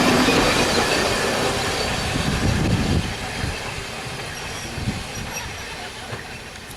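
Class 117 DMU carriage running along the rails, heard from inside the coach; the noise drops about three seconds in and keeps getting quieter.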